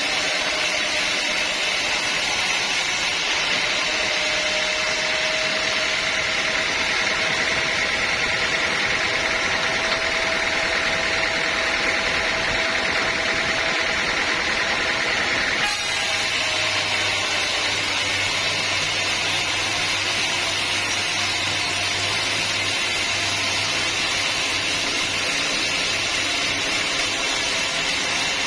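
Sawmill saw running steadily through a teak log, a continuous machine noise with a steady whine. A little past halfway the sound shifts and a low hum comes in.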